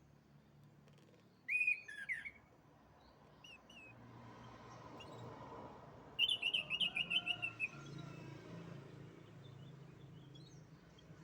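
Domestic canary singing: a short chirped phrase about a second and a half in, then a fast trill of rapid repeated notes lasting about a second and a half midway through, over a faint low hum.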